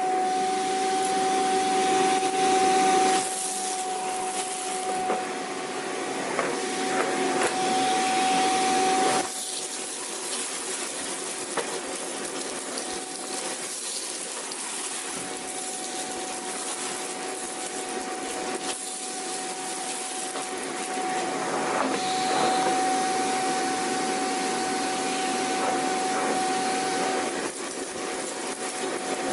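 Vacuum cleaner running: a steady motor whine over a hiss of rushing air, its loudness dipping a few seconds in, dropping again about nine seconds in, and rising once more in the second half.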